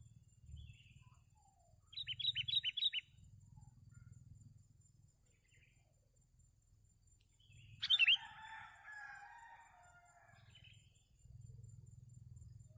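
Songbird calls: a quick run of about six sharp chirps, then about five seconds later a louder, drawn-out call that trails off. These are typical of sooty-headed bulbuls (kutilang), the birds being lured in.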